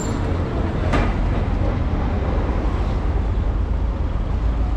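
Steady low rumble of motor vehicles, with one short click about a second in.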